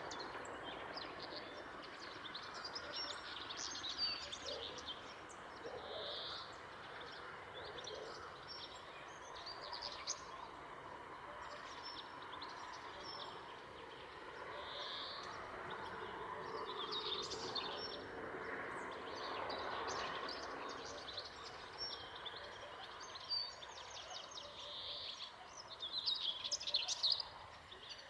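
Songbirds chirping and singing over a steady background hiss, with a burst of louder chirping near the end.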